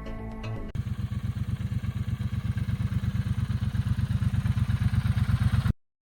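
Motorcycle engine running with a fast, even exhaust beat that grows steadily louder, then cuts off suddenly near the end. Music plays for the first moment before it.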